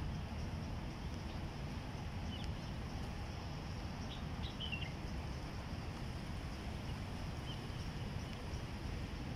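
Park ambience: a steady low rumble with a few short bird chirps, one about two seconds in, a cluster around four to five seconds in, and another near eight seconds.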